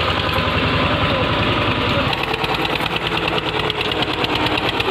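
Eicher 242 tractor's diesel engine running steadily, with a rapid, even knocking beat.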